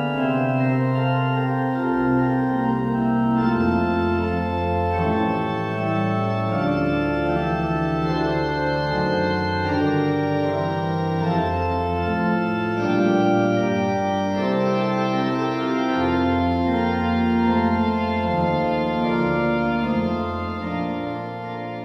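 Organ music playing slow, sustained chords over changing bass notes, beginning to fade near the end.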